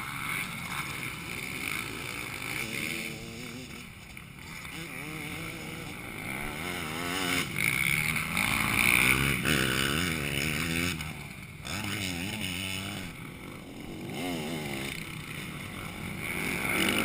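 Motocross bikes running on the track, their engines revving up and down again and again, louder as they come close about halfway through and again near the end.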